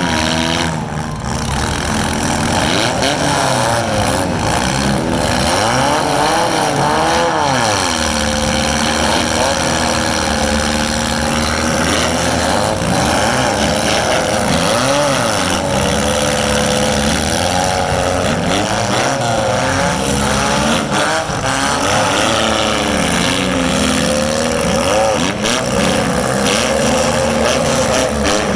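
Several four-cylinder demolition derby cars' engines revving up and down together, their pitches rising and falling against each other, with a few sharp crashes of cars hitting.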